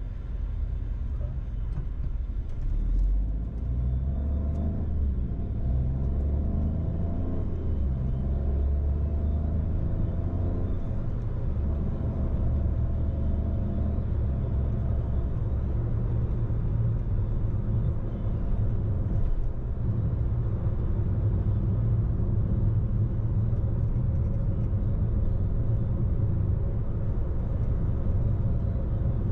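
Car driving on the road: a steady low rumble of engine and tyre noise heard from inside the cabin.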